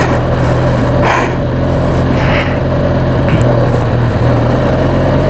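Motorcycle engine running steadily at low, even speed, with a constant low hum and the rush of traffic and wind around it.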